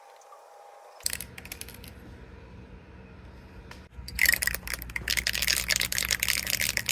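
Handling noise of small hard objects: a few sharp clicks about a second in, then from about four seconds in a loud, dense metallic clattering and rattling.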